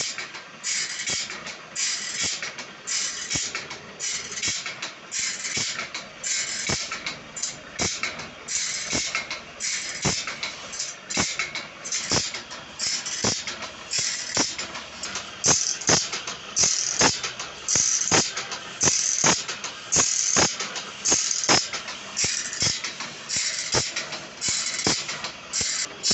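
Saw blade being worked by hand: repeated rasping strokes, roughly one to two a second, each starting with a sharp metallic click.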